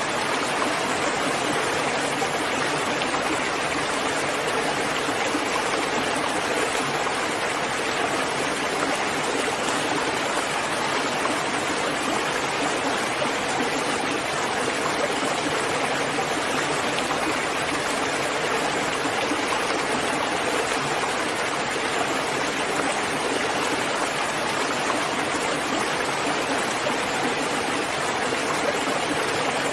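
Steady rain, an even continuous hiss of falling water with no single drops or gusts standing out.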